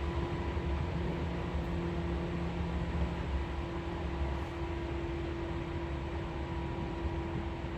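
Running noise inside a Seibu 4000 series electric train car at steady speed: a low rumble with a steady hum, one lower hum tone dropping out about three seconds in.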